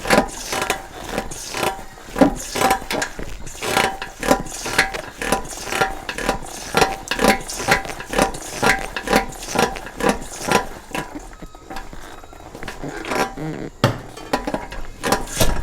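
Royal Enfield motorcycle's front forks knocking repeatedly, metal on metal, about two clacks a second with a short ring, going quieter near the end before one heavier thump. The fork cover sleeve has shifted out of place and touches the fork tube, so it strikes as the suspension moves.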